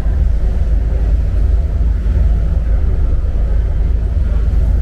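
Steady low rumble aboard a passenger ferry under way, its engine and hull noise strongest in the deep bass.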